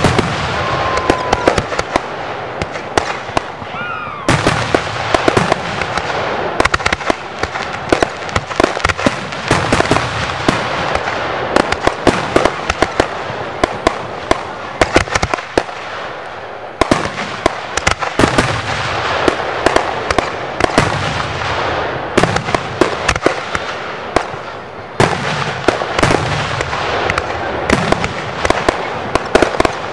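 1.3G display fireworks going off in rapid succession: a continuous dense crackling with many sharp bangs scattered through it. A couple of short whistles sound in the first few seconds.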